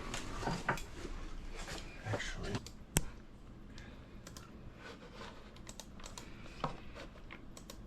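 Irregular light clicks and knocks of small hard objects being handled, with one sharp click about three seconds in, then fainter scattered ticks.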